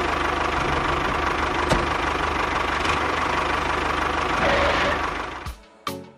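Engine running steadily with a rough, knocking idle, cutting off about five and a half seconds in. A short sharp sound follows near the end.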